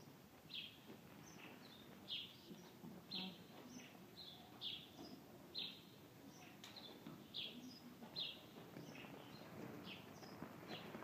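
Small bird chirping faintly and repeatedly: short, high, slightly falling chirps about once a second, over a low room rumble.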